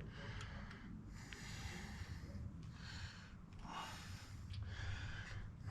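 A person breathing through the nose close to the microphone, a soft breath about every second, with a faint click or two.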